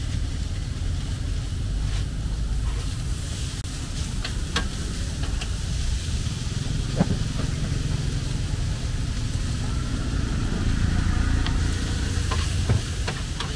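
Lort cha noodles sizzling in a pan on a portable gas stove, with scattered clicks and scrapes of a metal spatula stirring them, over a steady low rumble of street traffic.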